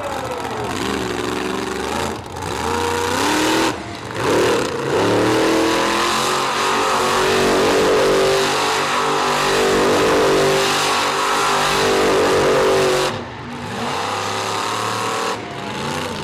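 Monster truck engine revving hard and held near full throttle for several seconds in the middle. The throttle lifts briefly about two and four seconds in, and again twice near the end.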